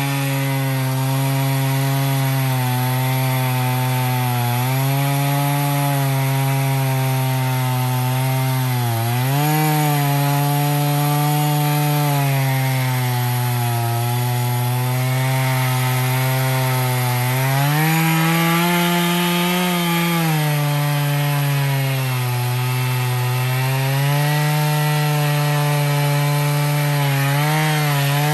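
Stihl MS461 two-stroke chainsaw on an Alaskan mill, running at high revs under load as it rips a cedar log lengthwise into slabs. The engine pitch sags and recovers as the load changes, dipping sharply about nine seconds in and rising for a couple of seconds just past the middle.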